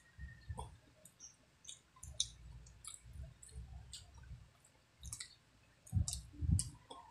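Close-miked eating sounds: scattered wet mouth clicks and lip smacks from chewing and finger-eating, with two soft low thumps about six seconds in.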